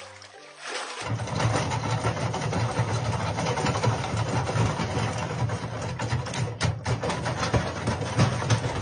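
A steady, engine-like rumble with a fast, rattling texture, starting about a second in and cutting off at the end.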